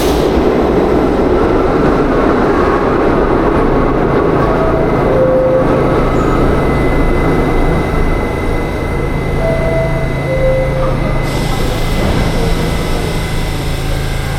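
New York City subway Q train running, a loud steady rumble of wheels and traction motors that eases a little about eight seconds in, leaving a steady low hum. A short two-note falling tone sounds twice, and a hiss starts about eleven seconds in.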